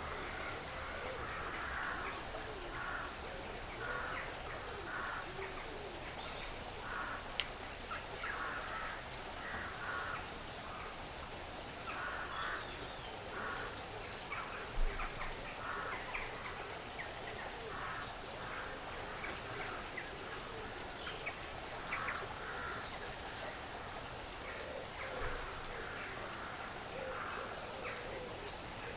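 Woodland ambience of squirrels feeding: many short scratchy gnawing and rustling sounds, often several a second, with small birds chirping high above. A sharp click about seven seconds in and a soft thump around halfway.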